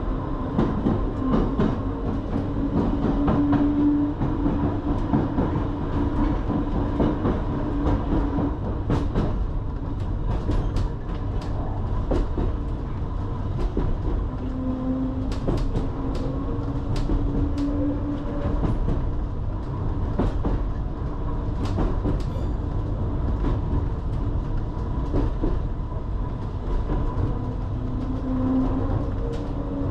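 Island Line Class 484 electric train running between stations, heard from inside the carriage: a steady rumble with a constant high electric tone and a lower motor hum that swells and fades several times, while the wheels click sharply over rail joints, most often in the middle stretch.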